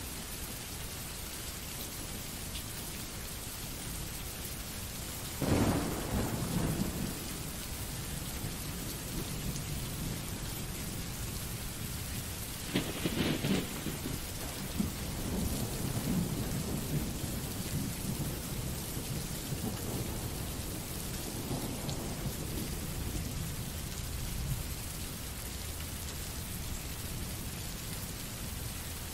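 Rain sound effect: steady rain, with a roll of thunder about five seconds in, another around thirteen seconds in, and a fainter rumble near twenty-two seconds.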